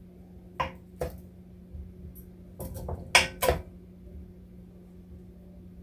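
Metal kitchen utensils clinking against a pan and dishes: two sharp clinks near the start, then a short run of louder clatters around the middle.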